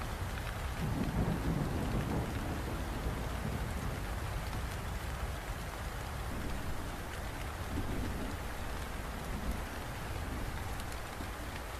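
Steady rain falling, with a low rumble of thunder about a second in and weaker rumbles later on.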